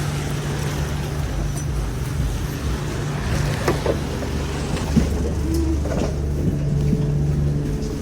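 Alexander Dennis Enviro 400 double-decker bus's diesel engine running with a steady low drone, heard from on board, with a few light clicks and knocks about halfway through.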